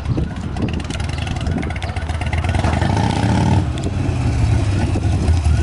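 Exhaust of a Buell XB9SX's air-cooled V-twin engine running on the street, its low rumble growing gradually louder.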